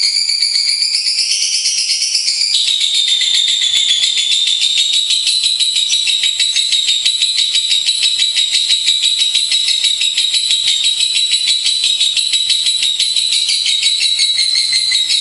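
Lovebird chattering in a long, unbroken, rapid high-pitched trill, its pitch shifting slightly lower about two and a half seconds in.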